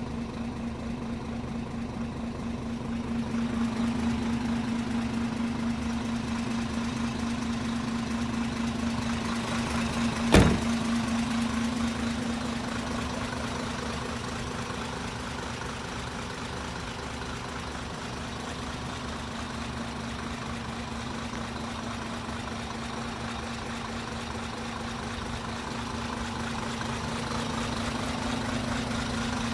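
Isuzu Forward truck engine idling steadily, with a single sharp knock about ten seconds in.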